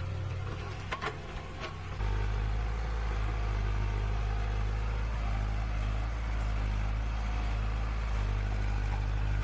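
A motor engine running steadily with a low rumble that sets in about two seconds in, after a couple of sharp clicks.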